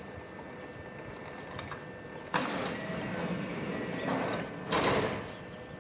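Kintetsu commuter train's sliding passenger doors opening at the platform: a sudden rush of air about two seconds in that holds for a couple of seconds, then a second, louder burst near the end.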